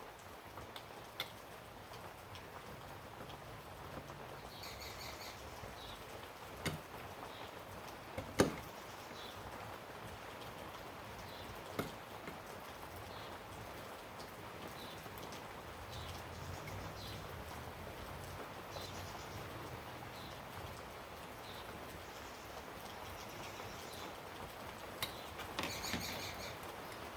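Occasional sharp clicks and taps of small metal carburetor parts being handled and set down on a workbench during reassembly of the accelerator pump, the loudest about eight seconds in and a small cluster near the end, over a quiet background with faint high chirps.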